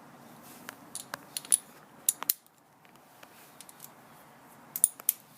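Socket wrench with an extension bar clinking against metal while being worked onto a bolt: a series of sharp, irregular metallic clicks, clustered about one to two seconds in and again near the end.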